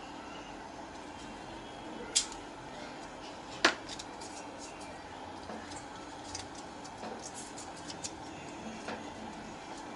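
Two sharp clicks, then a scatter of light ticks and taps over a steady background hiss, as small tools or parts are handled.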